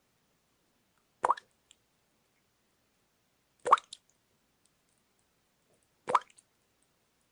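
Water dripping slowly: three single drops, about two and a half seconds apart, each a short sound that rises quickly in pitch.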